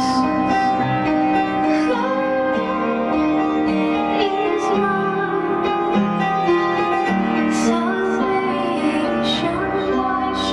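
Christian song: a woman singing long held notes over instrumental backing.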